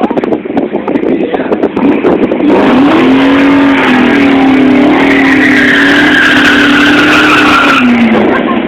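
Cammed Ford 5.0 V8 with long-tube headers, first running choppy and uneven, then held at high revs for about five seconds with tire squeal over the second half, then dropping back off near the end.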